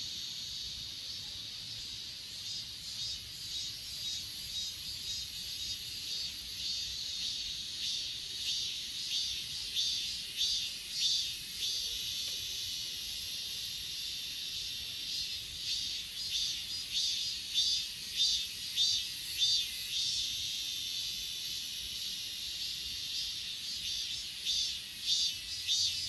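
Grass insects, crickets among them, trilling in a steady high chorus. Bouts of loud, evenly repeated chirps, a few a second, come and go on top of it.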